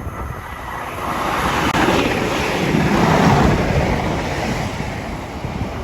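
A passenger train passing close by. Its rushing noise builds to a peak about three seconds in and then dies away.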